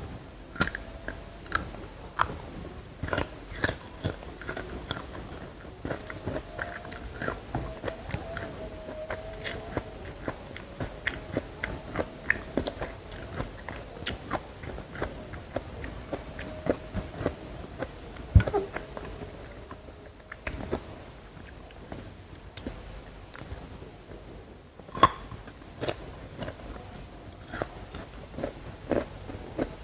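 Close-miked eating: crunchy bites and chewing, a steady run of irregular crisp crackles and mouth clicks, with louder crunches about eighteen and twenty-five seconds in.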